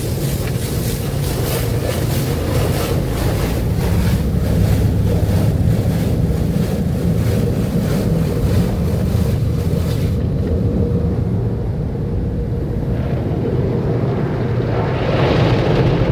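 Automatic AVW car wash tunnel at work: a loud hiss of water spray with a pulsing beat over a steady low rumble. About ten seconds in the high hiss falls away, and a fresh hiss swells up near the end.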